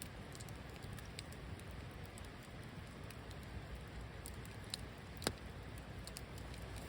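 Wood campfire burning: a soft steady hiss with scattered small crackles, and a sharper pop a little after five seconds in.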